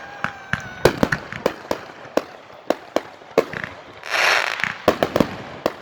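Fireworks going off: a rapid, irregular string of sharp bangs and pops, with a short hissing burst about four seconds in.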